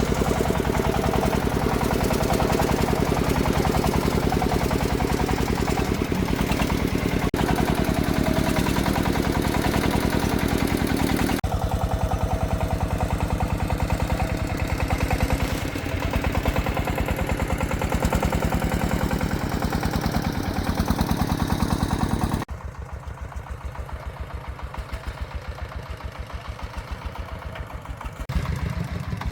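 Single-cylinder diesel engine of a công nông farm truck running with a steady rapid thumping. About 22 seconds in it abruptly becomes much quieter, then picks up again near the end.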